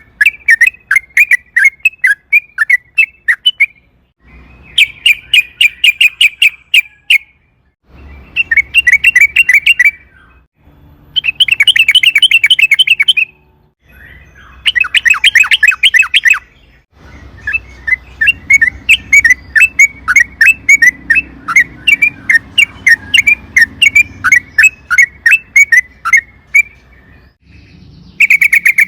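Yellow-vented bulbul (trucukan) singing a long, fast chattering song, the rapid trill that keepers call ropel: several bursts of two to three seconds with short gaps, then one unbroken run of about ten seconds near the end.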